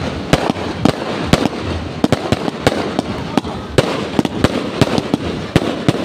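Fireworks going off in rapid succession: many sharp bangs, several a second, over a continuous noisy background.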